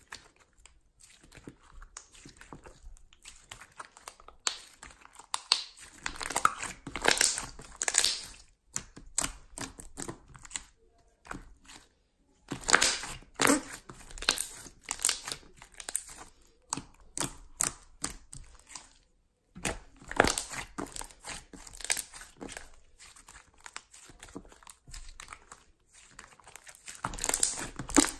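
Slime being squeezed, stretched and pressed by hand, giving irregular crackling, crinkling and squishing sounds that come in louder spells with quieter pauses between.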